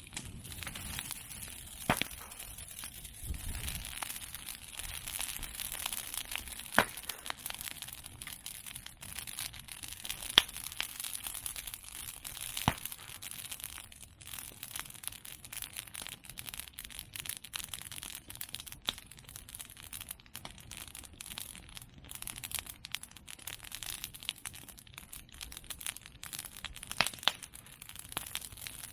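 Bonfire of cut bamboo and chestnut pruning branches crackling steadily, with about five sharp, loud pops spread through it as bamboo stems burst in the heat.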